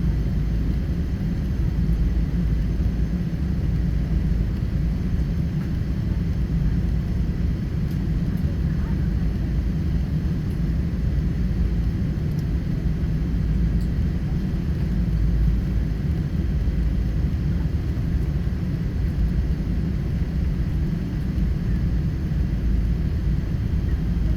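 Steady low rumble of engine and airflow noise inside the cabin of a Boeing 777-300 airliner, even throughout.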